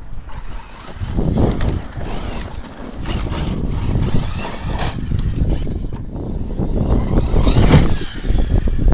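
Electric 6S-powered RC monster truck running: high brushless-motor whine and tyres on dirt, under heavy wind buffeting the microphone, with a sharp knock near the end.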